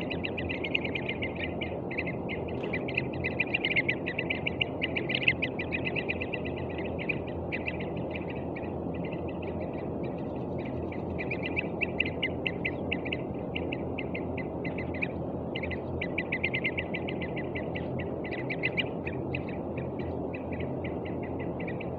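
A frightened young bird giving a continuous run of rapid, short, high calls that swell and fade in loudness, over a steady low background hiss.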